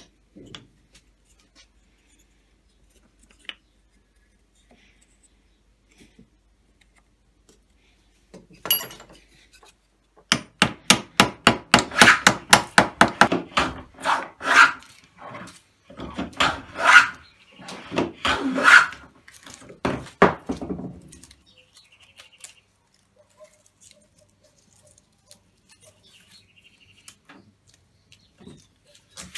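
Wooden jack plane with a stainless-steel sole pushed along a board: a quick run of short scraping strokes, then a few longer, louder strokes. The strokes stop about two-thirds of the way through.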